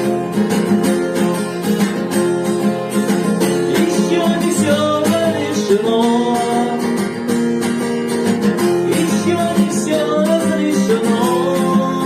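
Acoustic guitar strummed in a steady rhythm, playing on after the last sung line.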